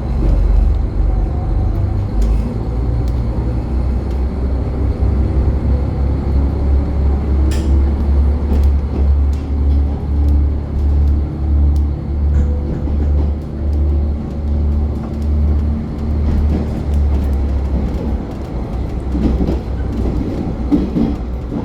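Limited Express Hokuto diesel train running at speed: a loud, steady low rumble that pulses in an even rhythm, with a few faint clicks.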